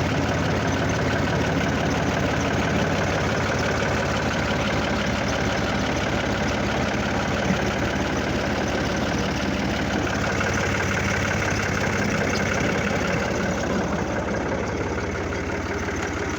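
Fiat 480 tractor's diesel engine idling steadily.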